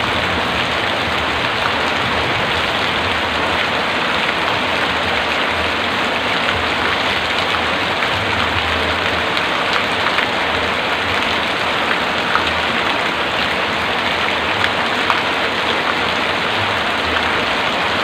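Heavy rain falling steadily, a dense even patter with scattered sharper drop hits and a faint low rumble underneath.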